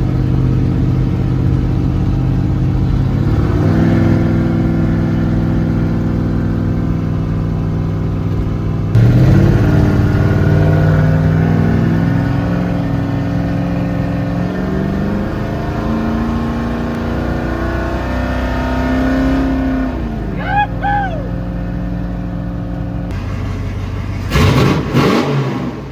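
Ford Bronco engine running under way, its pitch climbing in steps as it accelerates and revs, about four and nine seconds in. A couple of short rising-and-falling squeals come about twenty seconds in, and a loud burst of noise comes near the end.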